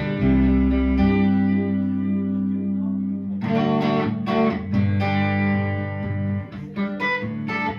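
Live band playing an instrumental passage led by guitar: held chords at first, then picked or strummed notes from about halfway through.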